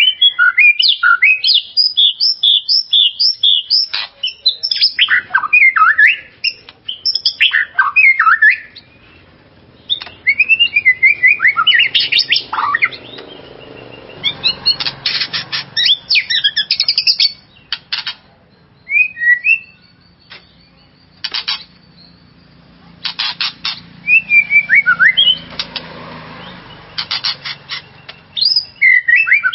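White-rumped shama singing loudly in bursts of quick, varied whistled notes mixed with rapid chattering trills, with short pauses between phrases.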